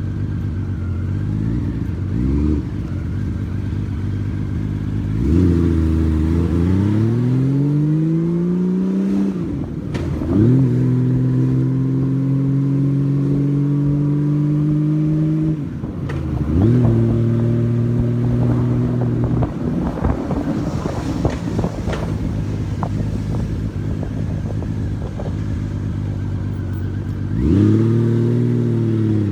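Honda Valkyrie motorcycle's flat-six engine heard from the rider's seat. It pulls away with its pitch rising, drops at each of two gear changes, then holds steady. For several seconds it falls back to a low idle, then revs up again near the end.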